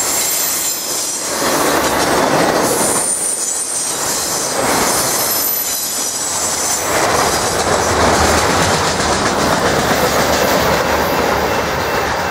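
Autorack freight cars rolling past close by, steel wheels clattering on the rails in a swelling and dipping rhythm as the cars go by, with a thin high wheel squeal in the first few seconds.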